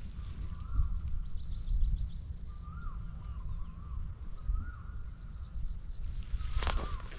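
Birds calling: a short whistled note repeated every couple of seconds and runs of rapid high chirps, over a steady low rumbling noise on the microphone.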